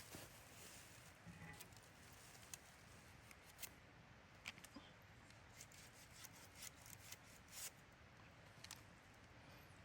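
Faint, irregular small clicks and ticks, one to three a second, over a quiet background hiss.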